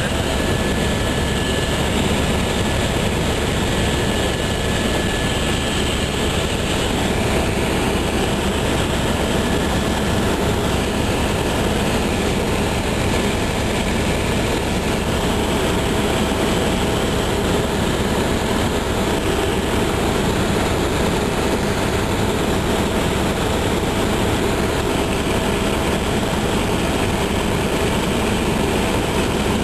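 Helicopter in flight heard from inside the cabin: a steady, even drone of rotor and engine noise.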